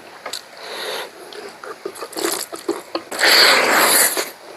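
Close-up eating sounds: wet chewing and mouth clicks over pork curry, then a louder rushing noise lasting about a second, a little after three seconds in.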